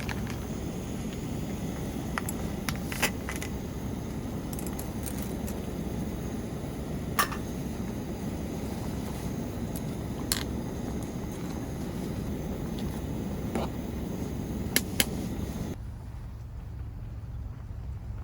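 Scattered light metallic clinks of cookware, a dozen or so separate knocks, over a steady low rumble. Near the end the background changes abruptly to a quieter, duller one.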